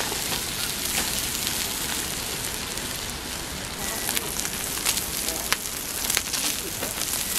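Food sizzling on a hot barbecue grill: a steady frying hiss with frequent sharp crackles and pops.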